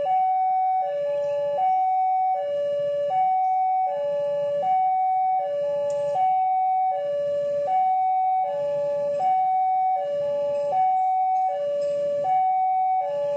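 Two-tone electronic siren alternating steadily between a low and a high note, each note held about three-quarters of a second.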